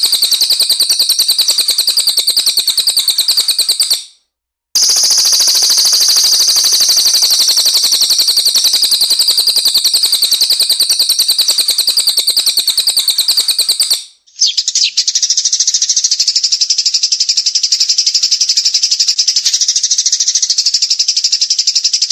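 Small caged songbirds singing 'tembakan': very fast, high-pitched chirp runs repeated without pause. The song stops briefly about four seconds in, then resumes. Around fourteen seconds in it cuts to a different bird's rapid song.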